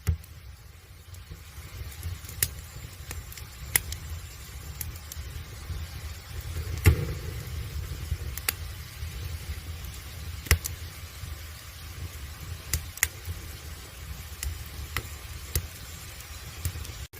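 Firewood burning in an agungi, a traditional Korean wood-fired firebox, crackling with scattered sharp pops over a steady low rumble. The loudest pops come about seven and ten and a half seconds in.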